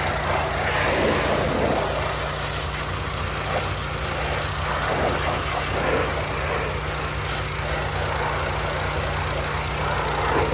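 Hot water pressure washer's engine and pump running steadily, with the hiss of high-pressure water spraying.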